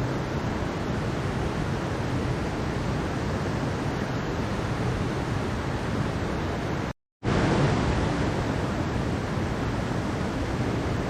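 Steady rushing of a mountain stream. The water sound cuts out completely for a split second about seven seconds in, then resumes slightly louder, like a splice in a looped recording.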